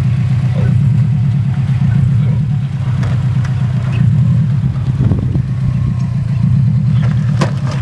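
Subaru WRX's flat-four engine running steadily at low revs as the car creeps along, a low, pulsing rumble. A few short sharp clicks near the end.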